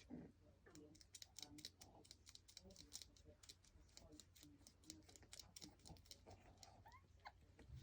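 Lancashire Heeler puppies at play, heard faintly: scattered clicks and taps of paws and claws scrabbling, with a few quiet squeaks and a short rising whine near the end.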